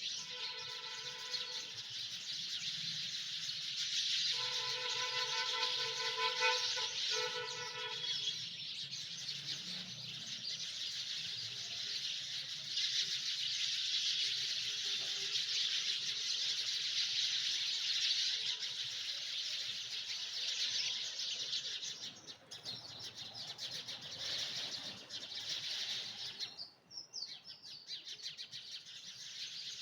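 Many small birds chirping at once in a dense, continuous chorus. Near the start a steady pitched tone sounds twice, briefly and then for about four seconds, over the chirping.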